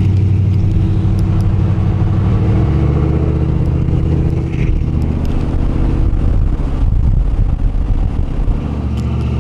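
A motor vehicle engine running close by: a loud, steady low rumble whose pitch shifts slightly a few seconds in.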